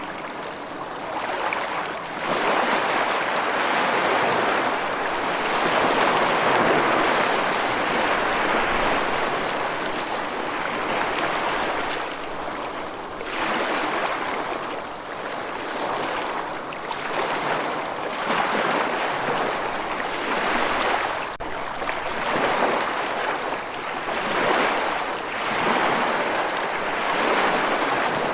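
Rushing water: a steady hiss that swells and eases every few seconds.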